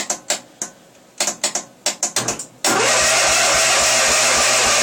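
Several sharp clicks, then about two and a half seconds in an electric starter cranks a cold small gas engine, turning it over about four times a second without it catching. This is a cold start tried without the choke.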